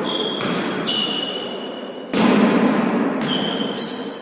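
A ball being struck and bouncing on an indoor court in a large echoing hall, with a loud sudden hit about two seconds in. Short high-pitched squeaks come and go over the top.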